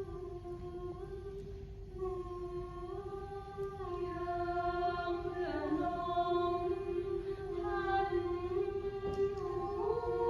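Voices singing slow, long-held notes in harmony, a cappella, moving in small steps of pitch. The sound grows fuller and louder about four seconds in.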